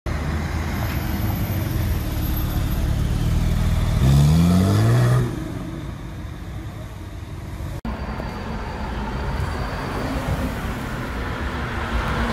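A sports car's engine accelerating hard, its pitch rising for about a second before it cuts off sharply. Steady traffic rumble lies beneath, with another car engine growing louder near the end.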